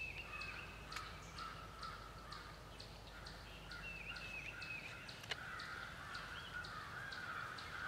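Woodland birds calling: a high chip repeated about twice a second, and a run of short dipping whistled notes near the start and again around four seconds in, over a faint hazy background. A single sharp click about five seconds in.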